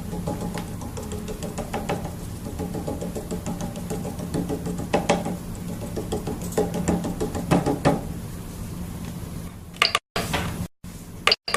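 Prusa i3 MK2 3D printer running, its stepper motors humming at shifting pitches with frequent knocks and clicks from the moving axes. The sound cuts out abruptly a few times near the end.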